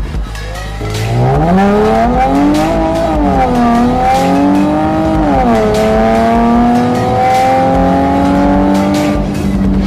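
Porsche Panamera S exhaust under acceleration: the engine note rises from about a second in, falls sharply about five and a half seconds in as it shifts up, then climbs slowly again.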